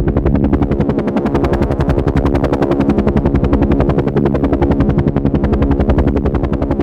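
Helicopter running steadily, its rotor blades chopping in a fast, even beat over a steady engine hum.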